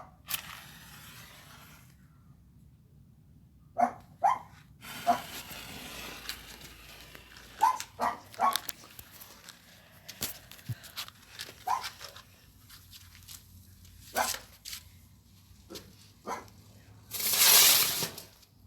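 A dog barking in short, sharp barks scattered through, over a stretch of hissing and crackling. Near the end comes a loud hissing rush lasting about a second and a half.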